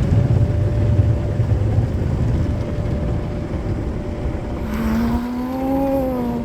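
Automatic car wash's rotating brushes and water rumbling against the car, heard from inside the cabin, easing off after about two seconds over a faint steady machine hum. Near the end comes a long pitched note that rises slightly.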